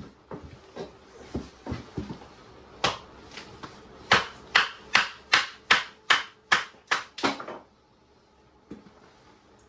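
Sharp knocking: a few scattered knocks, then a quick run of about nine even strikes at roughly two and a half a second, stopping about three quarters of the way through.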